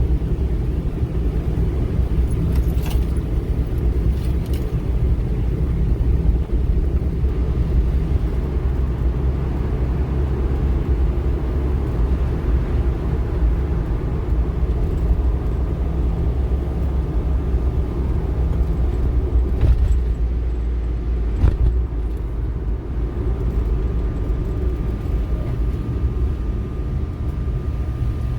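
Strong wind buffeting the microphone in a steady low rumble, gusty winds left by a passing typhoon, with a few faint clicks.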